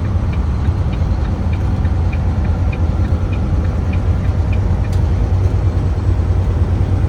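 Steady low engine and road drone inside a tractor-trailer's cab at highway speed, with the turn-signal flasher ticking about three times a second until it stops about four and a half seconds in. A single sharp click follows just before the five-second mark.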